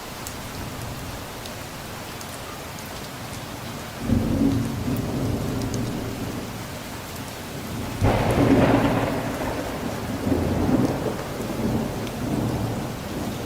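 Steady rain falling, with thunder: a low rumble breaks in about four seconds in, and a louder crack and rolling rumble about eight seconds in that rolls on to the end.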